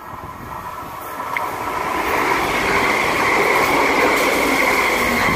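A train passing at speed alongside a platform. The rushing rail noise builds over the first two seconds and then stays loud, with a steady high whine from the wheels on the rails running over it.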